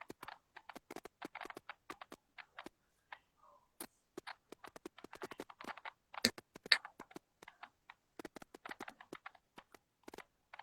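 Irregular quick taps, clicks and rustles, several a second, with a sharper knock a little over six seconds in.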